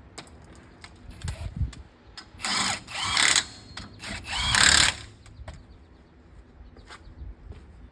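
Power tool, most likely a cordless impact wrench on wheel lug nuts, running in three short bursts, the last one longest, with small clicks and knocks around them.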